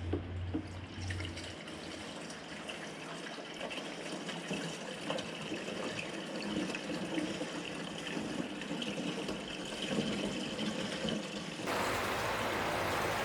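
Water running from a tap in a steady stream. It cuts off abruptly near the end, giving way to a flatter hiss.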